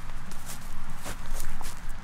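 Close-up footsteps crunching and crackling through dry grass and brittle twigs, several sharp steps in a row.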